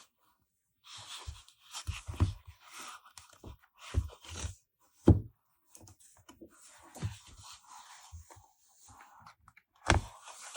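Paper and stickers being handled on a desk: rustling with irregular soft knocks and thuds, the sharpest about five seconds in and again near the end.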